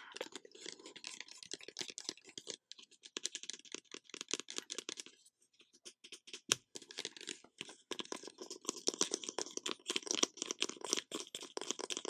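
Rapid, dense close-miked clicking and crackling ASMR trigger sounds, pausing briefly near the middle, with one sharper knock about six and a half seconds in.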